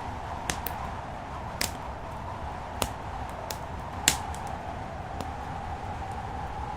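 Wood fire crackling in a fireplace: scattered sharp pops and snaps, the loudest about four seconds in, over a steady rushing background.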